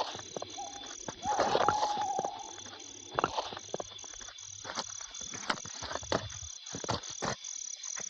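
Sound-effect crickets chirping steadily, about two and a half chirps a second, under the scuffs, knocks and footsteps of people climbing over a wall and walking on. A brief wavering tone stands out about a second in.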